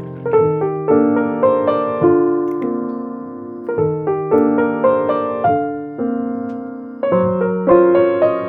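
Background music: a gentle solo piano piece of struck chords and melody notes, each ringing and fading.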